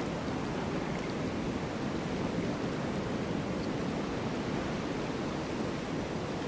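Snowstorm wind: a steady, low, even rushing with no gusts or breaks.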